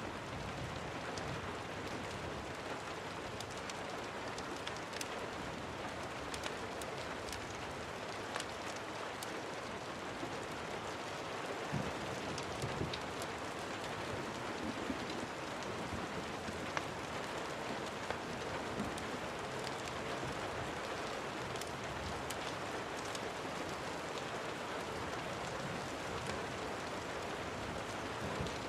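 Steady rain falling, with scattered sharp crackles and pops from a wood fire.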